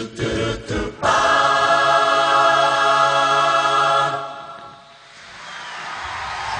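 An a cappella choir ends a song: a second of short rhythmic vocal strokes, then a long chord of many voices held for about three seconds that fades away. A rushing noise swells in near the end.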